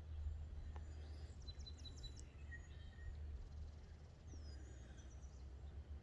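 Several small birds chirping and calling with short, high notes, over a steady low rumble of wind on the microphone.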